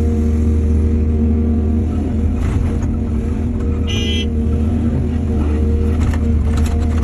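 Heavy diesel engines of excavators and dump trucks running with a steady low drone. A brief high-pitched tone sounds about four seconds in, and a few faint knocks come near the end.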